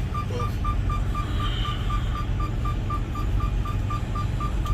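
Rapid, even electronic beeping from a warning beeper in a semi truck's cab, about four beeps a second at one pitch, over the low rumble of the truck's engine and road noise.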